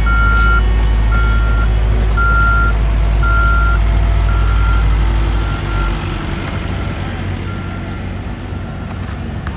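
Heavy construction vehicle's reversing alarm beeping about once a second over a diesel engine's low rumble. The beeps fade about halfway through, and the engine rumble drops off at the same time.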